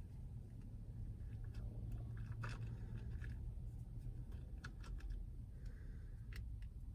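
Close-up chewing and crunching of fried fast food, with scattered sharp crunches and clicks, over a steady low hum.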